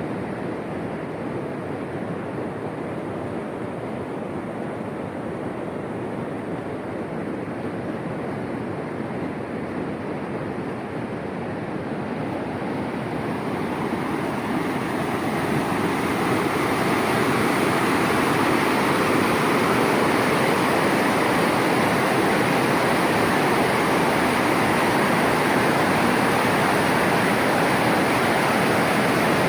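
Floodwater rushing in a flash-flood torrent, a steady noise of running water that grows louder from about halfway through and then holds.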